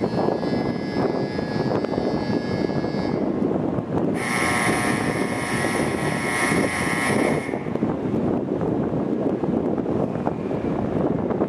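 N700-series Shinkansen train standing at the platform with a loud, steady drone from its running equipment. A faint electronic tone sounds over the first three seconds, and a louder held electronic tone runs from about four to seven and a half seconds in.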